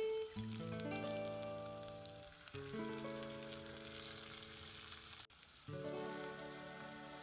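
Food sizzling in a frying pan, a steady hiss, under background music of long held notes. The sound cuts out for a moment about five seconds in.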